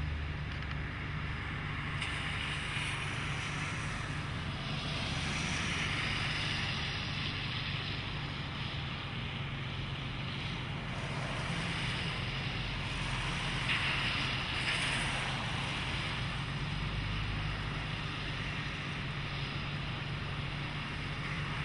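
Car engine running low and steady, heard from inside the cabin, with a rushing hiss over it that swells a few times.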